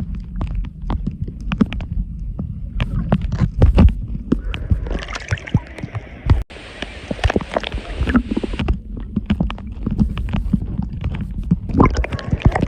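Seawater sloshing and gurgling around a phone sealed in a plastic waterproof pouch, heard through the phone's own microphone: a muffled low rumble with knocks and clicks as the pouch is moved about in the water. A few seconds of brighter hiss come up near the middle.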